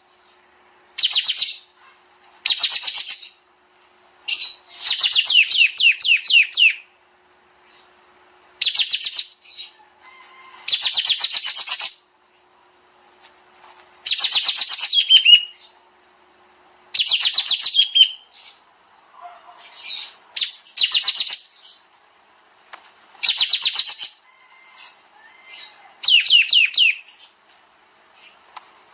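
A kapas tembak bird singing its rapid-fire 'tembak' song: burst after burst of fast, closely spaced high notes, each burst one to two seconds long, with short pauses between and some bursts ending in a few lower, falling notes.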